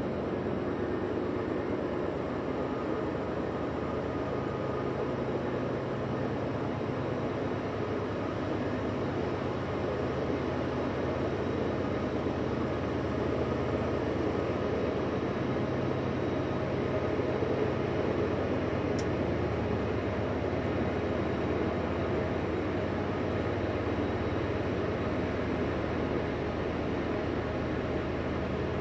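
CSX freight train rolling past at steady speed: the continuous noise of freight cars on the rails, with a low steady hum under it, just after the mid-train distributed power locomotives have gone by.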